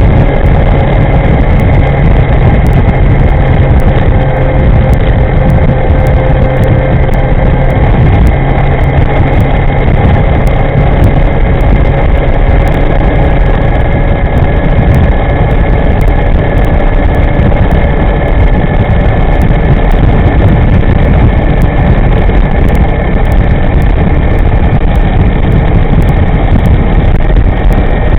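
Electric scooter riding at steady speed: a thick rush of wind and road noise, with a thin steady motor whine that drifts slowly in pitch.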